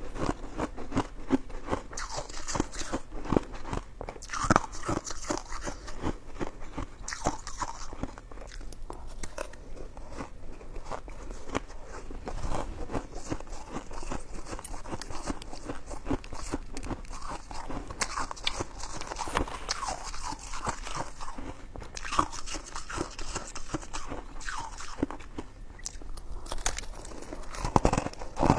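Close-miked chewing and biting of coconut sticky rice cake: a steady run of many short clicks from the mouth working the chewy rice.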